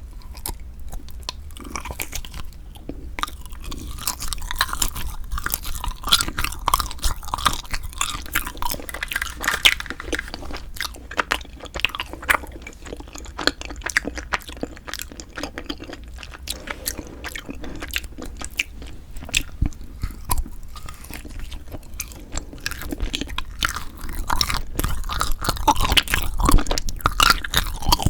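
Close-miked chewing and biting of Kiri cream cheese ice rice cake: irregular crunchy, sticky mouth sounds that grow louder over the last few seconds.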